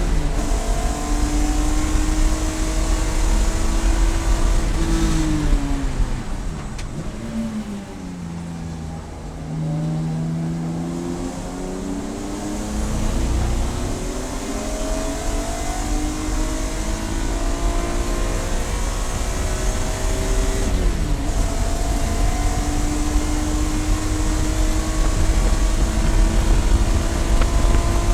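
Race car engine at speed on a circuit. About five seconds in the revs drop sharply under braking and downshifts, then climb slowly through a long acceleration. There is a quick drop at a gear change about three-quarters of the way through, and the revs rise again after it.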